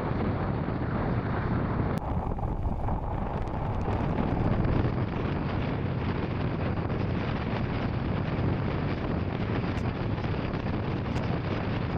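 Royal Enfield Scram 440's single-cylinder engine running steadily on the move, with wind rushing over the microphone.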